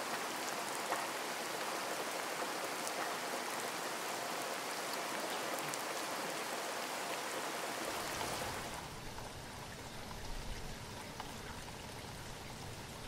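Steady rain, an even hiss with scattered drop patter. About eight and a half seconds in the hiss thins and a low rumble comes in beneath it.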